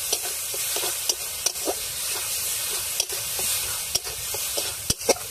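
Spice paste of ginger, garlic, onion and green chilli sizzling in hot oil in a kadai, with a steady hiss as it is stirred. A spatula scrapes and knocks against the pan a few times a second, with one sharper knock near the end.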